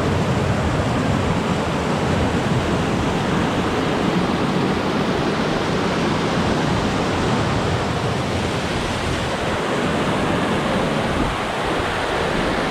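Rushing creek water: a steady, loud, unbroken rush of water churning through a rocky pool.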